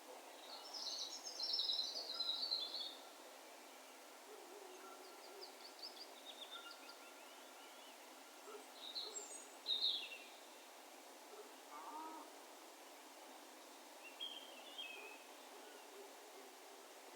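Distant wild birds calling with an echo: several short phrases of high chirps and trills, loudest about one to three seconds in and again around ten seconds in, with a lower call a little after, over a soft steady hiss.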